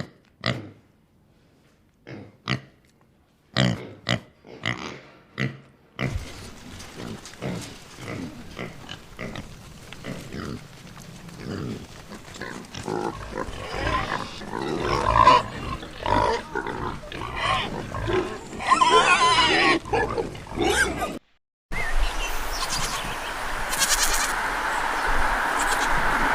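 Pigs grunting: a few short, separate grunts at first, then from about six seconds a denser run of many overlapping grunts. A little past twenty-one seconds a brief gap cuts to another animal recording with a steadier background.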